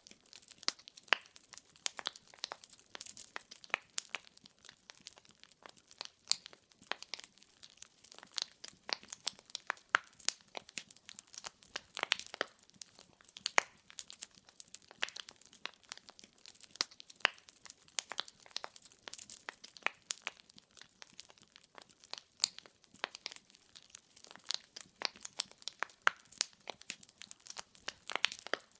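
Firewood crackling and popping in a fireplace: a steady run of sharp irregular snaps, several a second, with louder pops now and then over a faint hiss of the flames.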